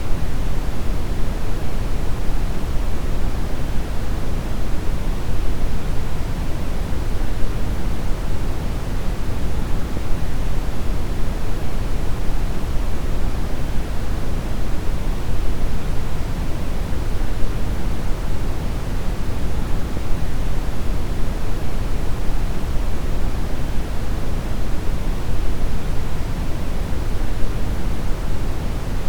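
Steady brown noise: an even, deep rushing hiss, strongest in the bass and fading off toward the treble, with no changes or events.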